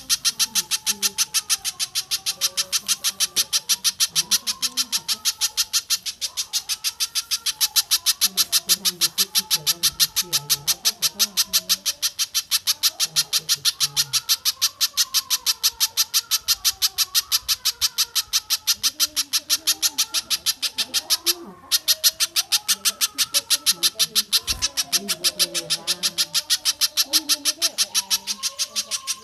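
Recorded bird calls: a fast, very regular string of sharp high-pitched notes, about three to four a second, broken by one brief pause about 21 seconds in, over fainter lower wavering calls.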